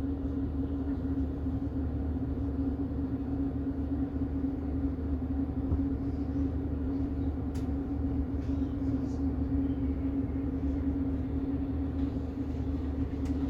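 Passenger train running, heard from inside the carriage: a steady low rumble with a constant hum and a faint click about seven and a half seconds in.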